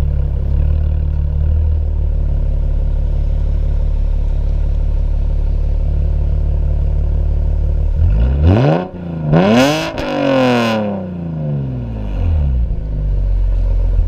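BMW E90 328i's inline-six with AA headers and a performance exhaust idling, then revved twice about eight seconds in, the second rev higher. The revs then fall back to a steady idle.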